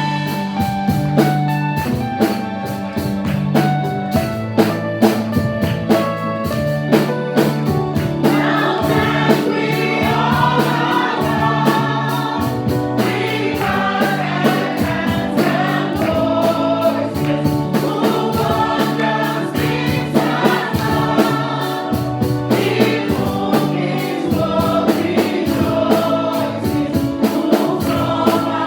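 Gospel praise-and-worship music: a band plays steady bass notes over a regular drum beat, and a choir of voices joins in about eight seconds in.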